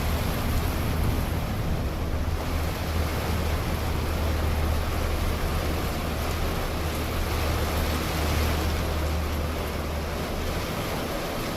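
Steady storm wind: an even rushing noise with a deep rumble of wind buffeting the microphone.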